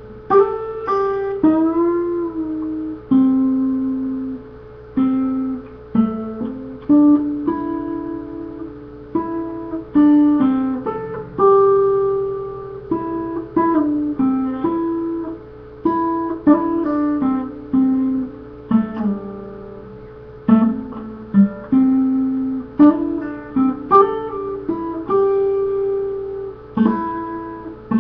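Solo guitar playing a slow tune: plucked melody notes over lower bass notes, each ringing out and fading, one or two notes a second. A faint steady hum runs underneath.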